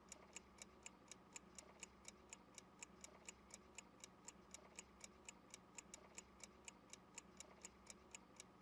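Faint clock-ticking sound effect, even ticks about three a second over a low steady hum, serving as a timer during a pause left for the learner to answer.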